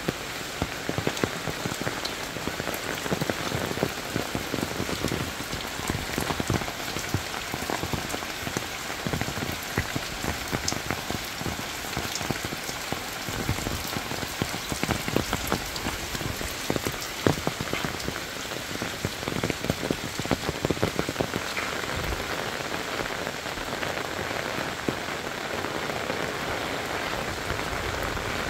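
Steady rain falling on leaves, roofs and a wet lane: an even hiss dotted with irregular close drops tapping.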